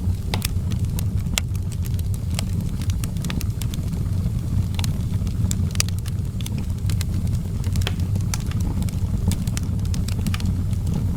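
Outdoor wood fire crackling, with irregular sharp pops a few times a second over a steady low rumble.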